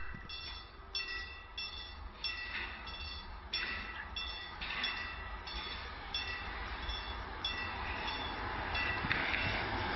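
A bell struck over and over, about once or twice a second, typical of a railway level-crossing warning bell, while a train's rumble slowly grows louder as it approaches.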